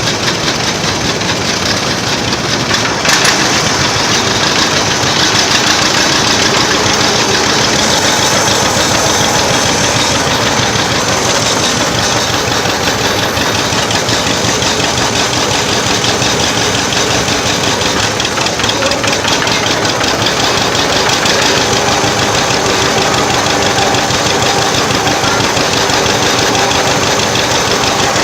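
Antique tractor engine running steadily, heard from the driver's seat.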